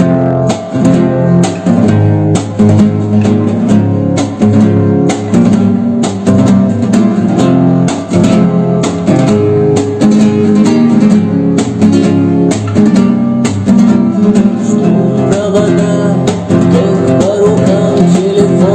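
Acoustic guitar strumming chords in a steady rhythm, the instrumental intro before the singing starts.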